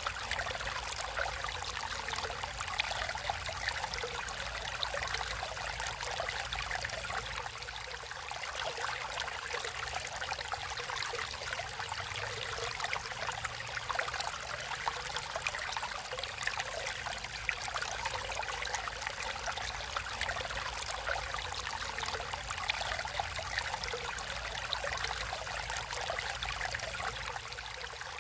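Stream water flowing and trickling steadily over rocks, a continuous splashing babble without pauses.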